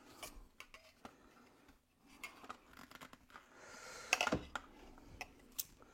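Plastic mop handle and head parts being handled and pushed together: scattered light clicks and rubbing, with one louder knock about four seconds in.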